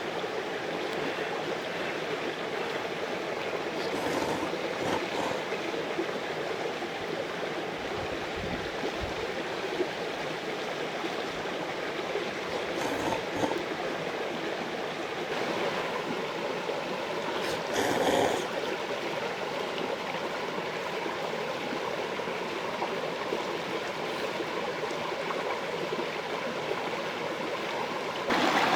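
Mountain stream rushing steadily, with a few brief knocks over it, the loudest about eighteen seconds in.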